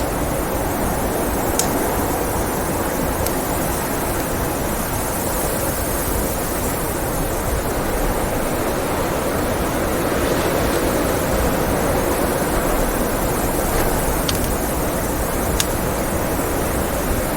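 Blizzard wind blowing in a steady, even rush, with a few sharp pops from a crackling wood fire scattered through it.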